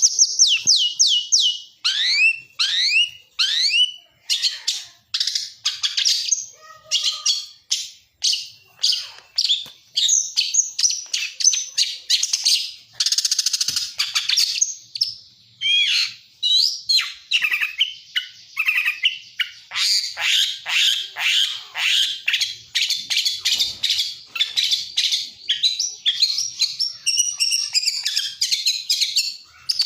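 Songbird kept by Indonesian bird hobbyists as a 'lacer', singing non-stop in a fast, varied song of quick down-slurred whistles, rapid stuttering trills and harsh chatter, with only brief pauses between phrases. This is a full-fill lure ('pancingan isian') song.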